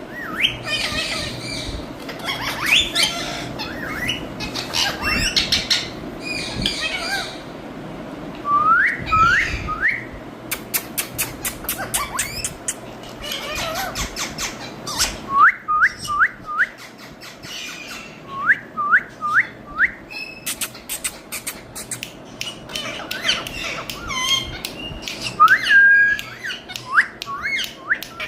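Indian ringneck parakeet calling: squawks, and short rising whistles repeated in quick runs of three or four, with stretches of rapid clicking between them.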